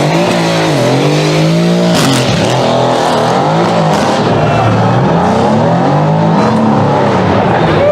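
Supercar engine revving, its pitch climbing and dropping again several times in a row.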